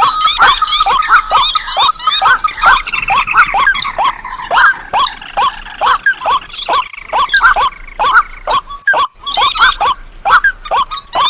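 Lure recording of wetland rails (waterhens, crakes, swamphens) calling over one another: a fast run of short downward-sliding calls, about three a second, with higher chirping notes above.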